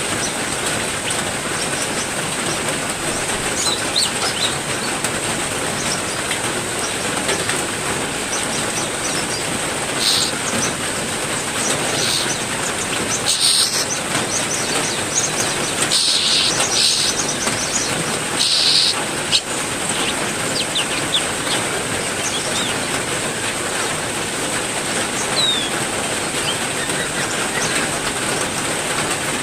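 Heavy rain falling steadily, with caged songbirds calling in short bursts over it, several between about ten and nineteen seconds in and a few thin chirps later.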